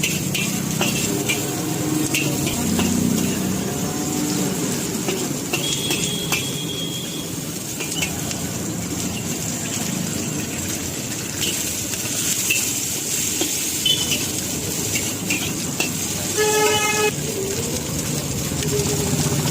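Noodles being stir-fried in a wok, a steady sizzle with scraping and stirring, over passing road traffic. A vehicle horn toots briefly near the end.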